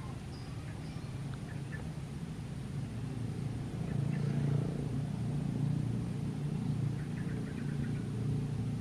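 Steady low engine rumble that swells about four seconds in, with faint bird chirps.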